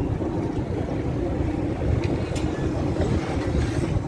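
Passenger train running: a steady low rumble of the wheels and running gear heard from on board, with a constant hum and a couple of faint ticks.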